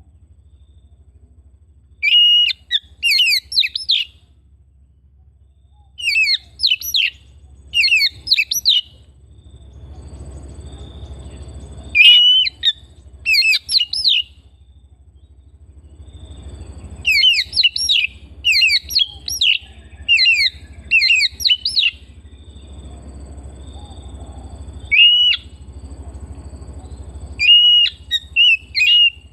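Oriental magpie-robin singing: short, loud phrases of quick sweeping whistled notes, repeated every second or two with brief pauses between them, over a low steady hum.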